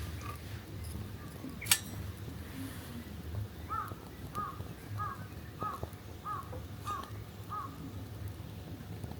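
A crow cawing seven times in an even series, a little under two caws a second, starting about four seconds in. Before that, a single sharp click.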